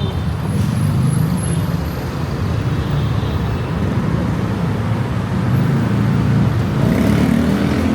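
Road traffic: engines of passing cars and buses running in a steady low rumble.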